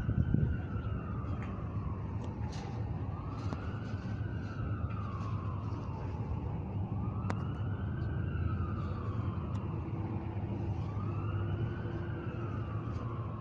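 A siren wailing, its pitch sweeping up and then slowly down about every five seconds, over a steady low rumble.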